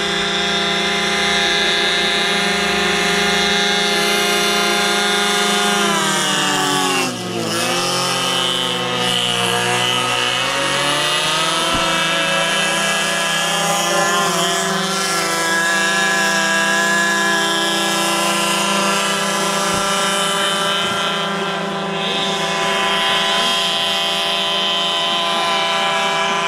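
RC airboat's small in-line engine running and driving its air propeller. The pitch drops sharply about seven seconds in as the throttle is pulled back, then climbs back up over the next few seconds. There is a smaller dip in revs near the end.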